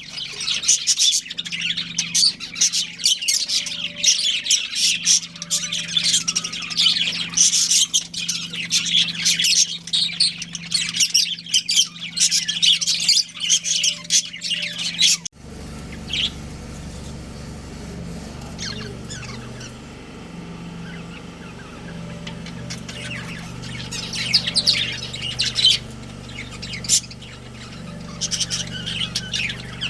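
Budgerigars chattering with rapid high chirps and squawks. About halfway through the sound cuts abruptly to a quieter stretch with only scattered chirps over a low steady hum, and the chirping thickens again near the end.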